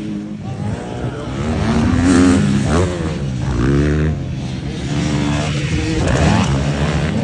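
Several motocross motorcycle engines revving at once, their pitch climbing and dropping over and over as the bikes accelerate.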